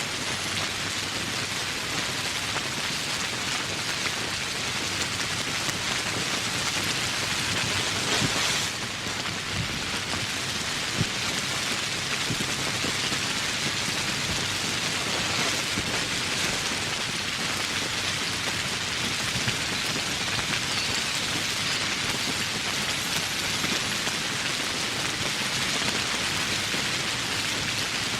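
Steady heavy rain falling on forest foliage: an even hiss with scattered louder individual drops. There is a brief dip in the sound about a third of the way through.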